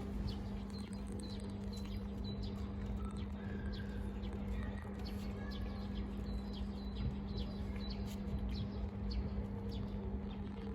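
Small birds chirping repeatedly in short, high, falling notes over a steady low hum.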